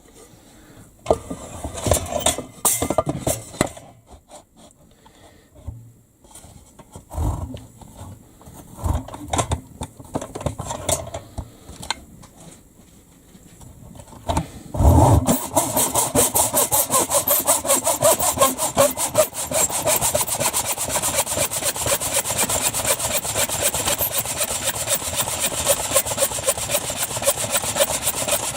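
Hand saw cutting through a timber beam. Scattered knocks for the first half, then a loud knock about halfway, after which fast, steady back-and-forth saw strokes run on without a break.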